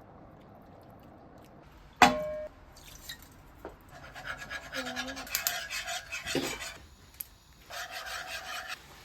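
A sharp knock with a short ringing tone about two seconds in, followed by rubbing and scraping noises of household objects being handled, with brief pitched sounds mixed in.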